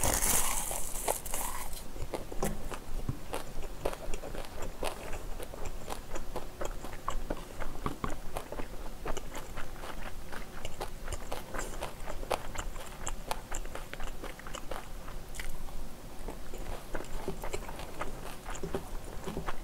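Close-miked mouth sounds of eating kimchi fried rice wrapped in a dried laver (gim) sheet. A crisp, loud crackle of the seaweed being bitten lasts about the first two seconds, followed by a long run of moist chewing clicks.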